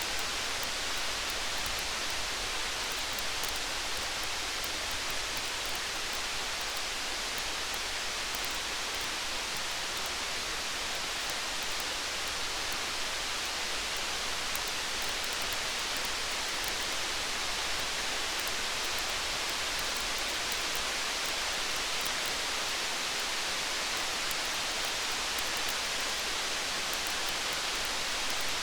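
Steady rain with a campfire: an even hiss of falling rain, with faint small crackles scattered through it.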